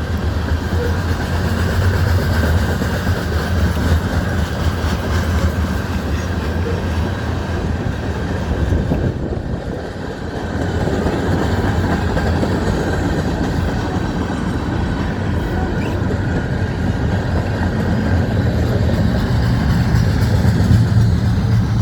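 Freight train cars rolling past on the rails: a steady, loud rumble of wheels on track that dips briefly about ten seconds in.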